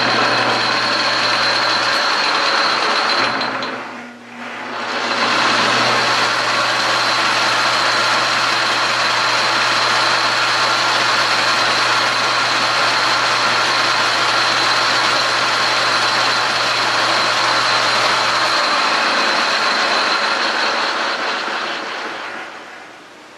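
Metal lathe running with a single-cut lathe file held against the spinning metal stock: a loud, steady rasping with a high whine over the lathe's hum. It breaks off briefly about four seconds in, resumes, and dies away near the end.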